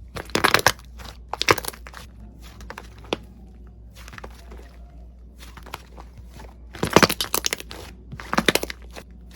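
Crunchy slime being pressed and squeezed, crackling in quick clusters, with the loudest bursts about half a second in, around a second and a half, around seven seconds and around eight and a half seconds.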